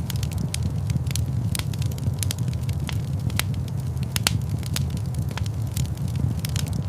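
Wood fire in a fireplace burning steadily, with frequent sharp irregular crackles and pops over a low rumble of flames.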